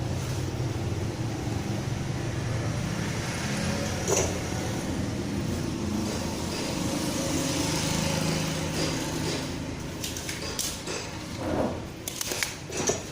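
Desoldering the 12 V filter capacitor from an air-conditioner control board: a steady hiss with a low hum, one sharp click about four seconds in, and several clicks and taps near the end as the part is worked loose. The board has a short on its 12 V line.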